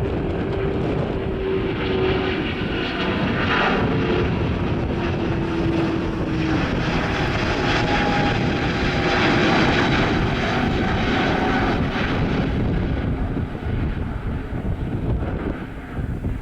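Airliner engines passing close by, growing to their loudest about two thirds of the way through and then easing off, with wind buffeting the microphone.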